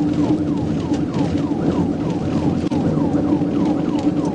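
Police car siren in a fast yelp, each cycle a quick falling sweep, about three to four a second, over steady engine and road noise.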